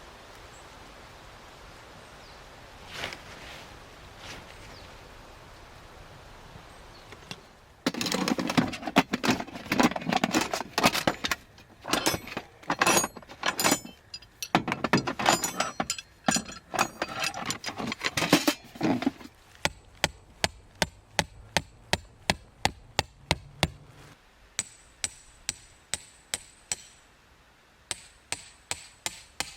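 Tent pegs being driven into the ground with a metal peg hammer: a steady run of sharp strikes, about two a second, the later ones with a metallic ring. Before that comes a stretch of loud, irregular handling noise.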